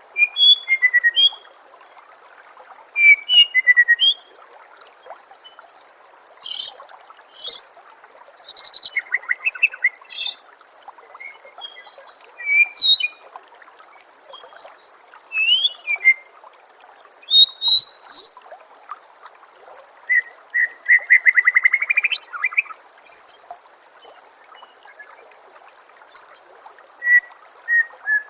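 White-rumped shama (murai batu) singing: loud, varied phrases of clear whistles and rapid chattering notes, each a second or so long, separated by short pauses. Underneath runs a steady trickle of water.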